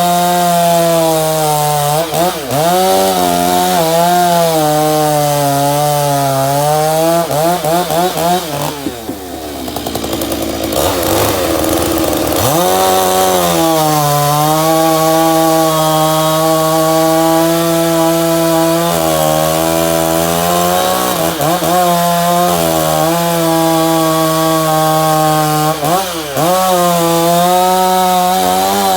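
Stihl MS461 two-stroke chainsaw with a custom billet-aluminium exhaust running at high revs and cutting wood. Its pitch dips under load several times, and it is pulled down hard for a few seconds about a third of the way in before it climbs back up.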